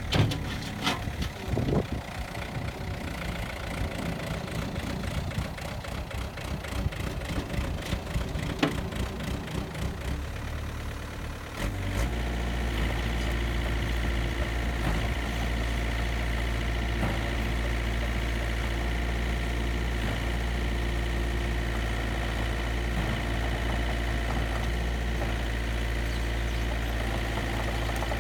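Komatsu PC50UU-2 mini excavator's diesel engine running, uneven at first with clatter and knocks. About twelve seconds in the sound changes suddenly to a louder, steady engine drone with a steady high whine over it.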